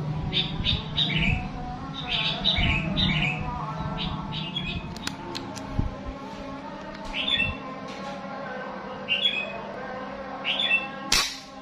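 A small songbird calling repeatedly: short sharp chirps in quick clusters of two or three notes, some dropping in pitch. Just before the end comes a single sharp crack.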